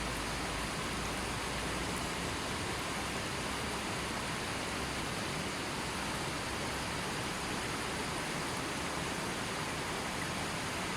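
River water flowing steadily, an even rushing wash with no distinct splashes.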